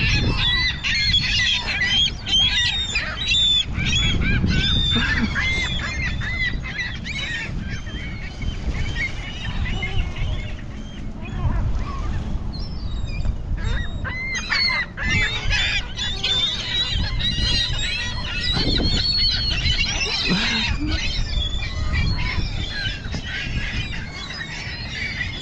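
A flock of gulls calling over food, many short overlapping cries at once. The calling thins out briefly about halfway through, then builds up again.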